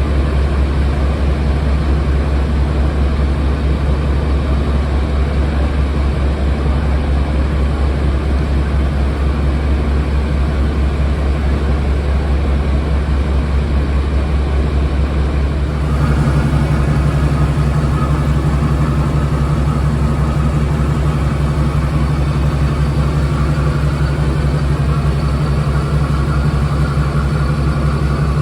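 Diesel engines of a Class 52 Western diesel-hydraulic locomotive, twin MTU V12s, running at a steady idle with a deep hum. About halfway through the sound steps up, louder and with a higher note added.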